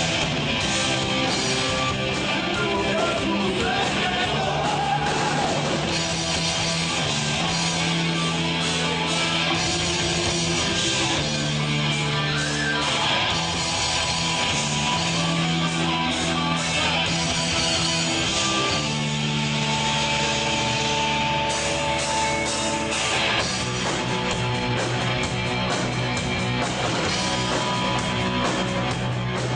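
A rock band playing loud, distorted rock with electric guitars, bass and drums, and a voice singing over it.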